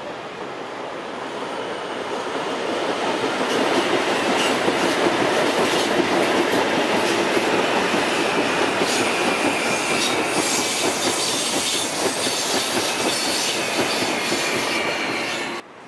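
CPTM electric multiple-unit commuter train passing close by: the running noise of its wheels on the rails builds over the first few seconds and then holds loud, with repeated clicks over rail joints and a faint, steady, high-pitched wheel squeal.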